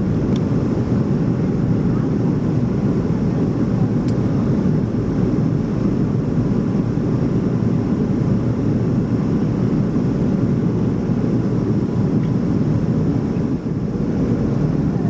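Steady low rushing cabin noise inside a Boeing 737-400, from its CFM56 jet engines.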